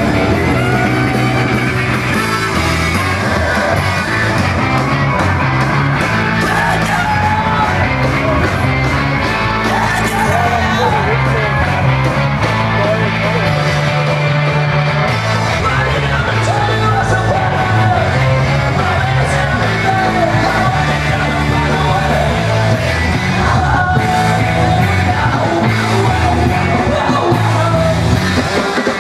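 Rock song with shouted, sung vocals over a steady bass line and drums; it cuts off abruptly at the end.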